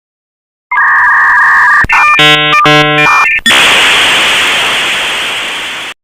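A string of cartoon sound effects. First comes a steady electronic tone of two pitches, about a second long, then a click, then two short pitched honks, and then a steady hiss that slowly fades out.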